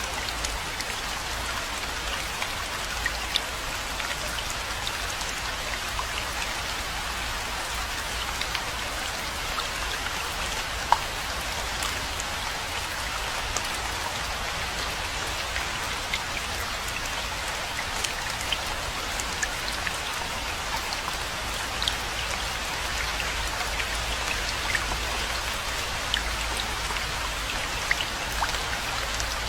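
Steady rainfall: a dense, even hiss of drops with many single drop ticks standing out, and one sharper tick about eleven seconds in.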